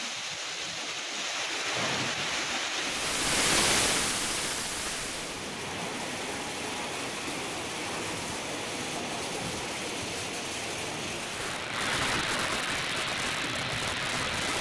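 Heavy rain pouring down in a strong wind, a dense steady rushing. It swells loudest about three and a half seconds in and rises again a little near the end.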